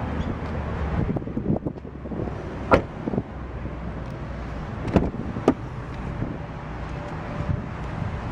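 Car door handle and latch clicking three times over a steady low outdoor rumble. One sharp click comes a little before the middle, then two more about half a second apart.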